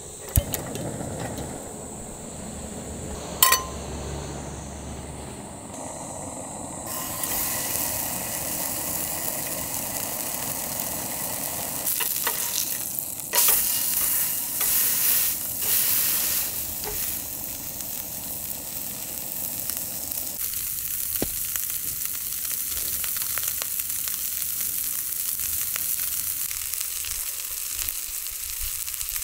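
Food frying and sizzling, quieter at first and then louder from about seven seconds in, with a few louder flare-ups around the middle. A single sharp click about three seconds in.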